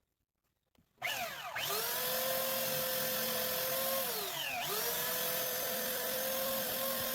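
Electric power tool switched on about a second in and running at high speed with a steady whine. Its pitch dips sharply and recovers twice as the motor is loaded by cutting or shaping wood.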